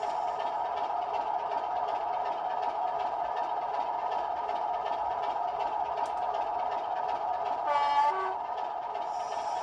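Sound-fitted OO gauge model diesel locomotive running with a steady engine sound, giving a short two-tone horn blast, high note then low, about eight seconds in.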